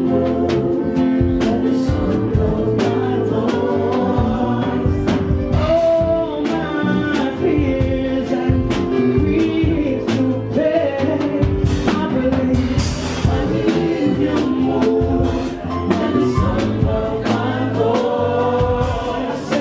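Gospel music with several voices singing over a band with a steady beat.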